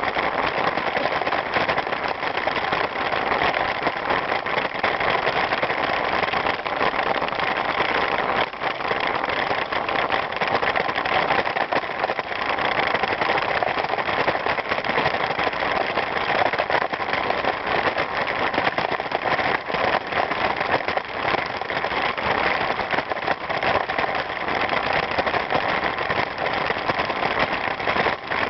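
Steady rushing noise of a bicycle being ridden: tyres rolling over the ground and wind on the microphone.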